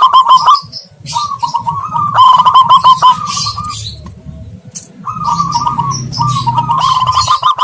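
Zebra doves cooing in rapid, staccato phrases of repeated notes, with a short pause in the middle, over high chirping of small birds: a lure call played back to draw wild doves.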